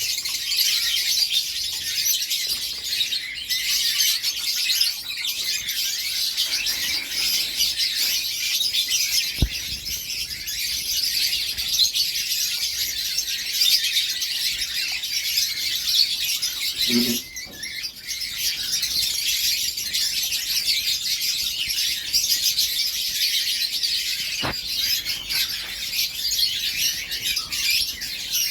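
Young domestic canary singing a long, continuous high warbling song, broken once by a brief pause a little after halfway.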